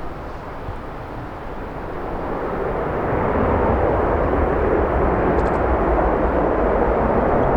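Jet airliner engine noise growing steadily louder from about two seconds in, over a low wind rumble on the microphone.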